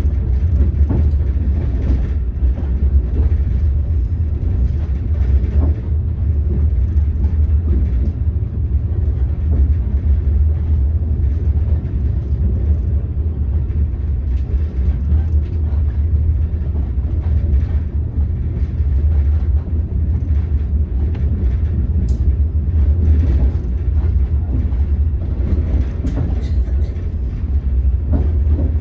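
Steady low rumble of a passenger train coach running along the track, heard from inside the carriage.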